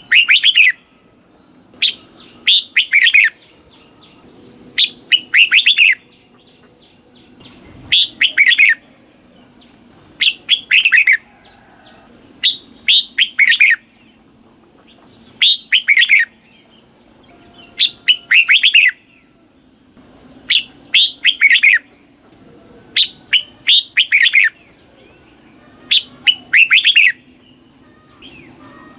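Red-whiskered bulbul singing: loud, short phrases of several quick notes, repeated every two to three seconds.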